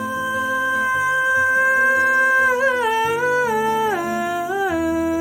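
Woman's voice singing a wordless note, held steady for about two and a half seconds, then sliding down in several steps to a lower held note, over acoustic guitar accompaniment.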